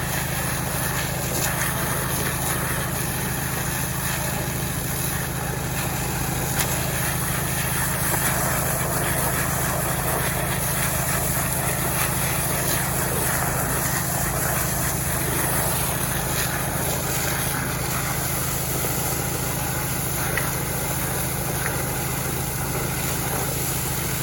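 Small Robin petrol engine running steadily at a constant speed.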